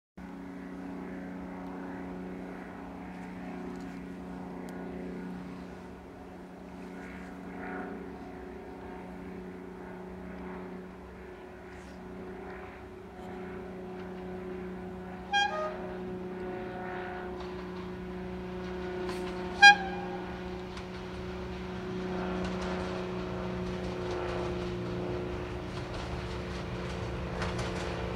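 British Rail Class 52 'Western' diesel-hydraulic locomotive D1062 idling with its twin Maybach diesel engines giving a steady drone, cut by two short, sharp pitched toots about four seconds apart. The engine sound grows slightly louder and fuller near the end.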